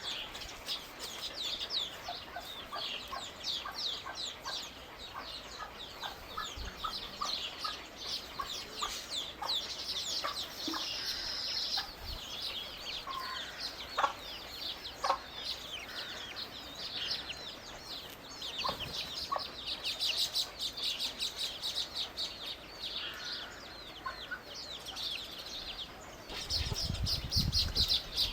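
Many small birds chirping in fast, dense chatter, with a few sharper clicks. The chatter gets louder near the end, over a low rumble.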